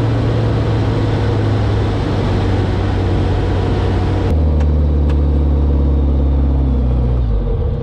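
Light aircraft's Rotax engine running steadily in flight, a loud even drone. A little over halfway through, the sound changes abruptly to a lower, deeper engine hum.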